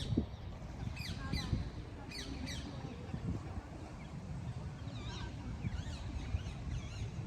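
Birds calling: a few short, sharp calls that fall in pitch, in quick succession about one and two seconds in, then softer wavering calls later, over a steady low rumble.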